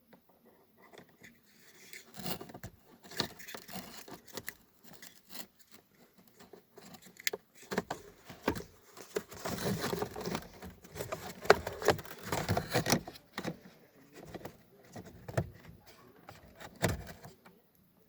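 Hands working plastic car-interior trim and parts while a headlight adjustment switch is changed: irregular clicks, rattles and scrapes, busiest toward the middle, stopping shortly before the end.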